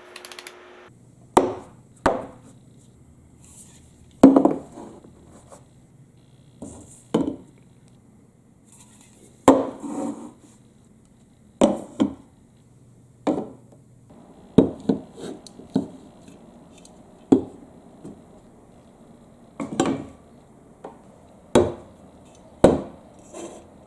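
Marbles knocking and rolling along a wooden marble run: a string of sharp wooden clacks, about one every second or two, with a faint low rolling rumble between them during the first half.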